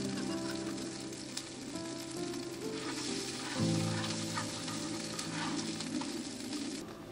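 Food sizzling as it fries in a pan, with small crackles and spits, under background music with held notes.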